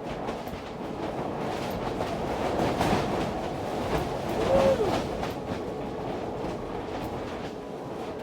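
Storm-force wind buffeting a sailboat's loose shrink-wrap winter cover: a steady rushing rumble full of rapid flapping and rattling. About halfway through, a short whine rises and falls as the loudest moment.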